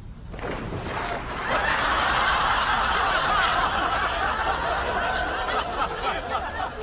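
Studio audience laughing, swelling about a second and a half in and easing off near the end.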